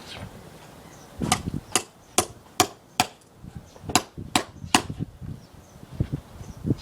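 Hammer driving a chisel into a wooden log: about eight sharp strikes in two quick runs, roughly two a second, with a few duller knocks near the end.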